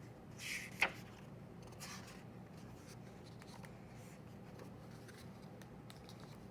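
Paper handling as a picture book's page is turned: a short rustle ending in a crisp snap about a second in, then a softer rustle a second later, over a low steady room hum.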